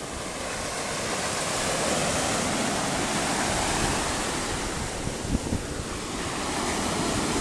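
Ocean surf: a wave breaking and washing in, a broad rushing noise that swells over the first couple of seconds and holds, with light wind on the phone's microphone and a few small knocks about five seconds in.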